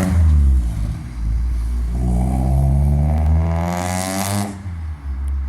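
Freshly rebuilt Toyota 4A-GE four-cylinder engine in a 1988 Corolla being revved: the revs drop away at the start, then climb in one rising rev from about two seconds in, peak near four and a half seconds, and fall back.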